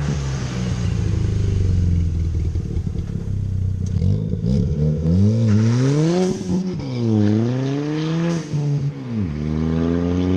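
Turbocharged Ford ST four-cylinder with a catless downpipe and aftermarket catback exhaust, idling with a deep burble. About five seconds in it is revved up and back down twice, then its pitch climbs steadily near the end.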